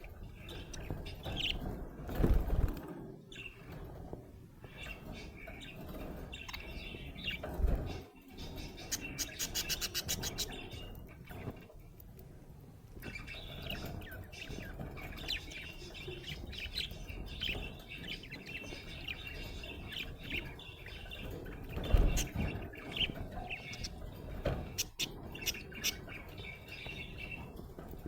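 Budgerigar chirping and chattering, a busy stream of short high chirps. A fast run of clicks comes about a third of the way in, and there are two low thumps, one about two seconds in and one about three-quarters through.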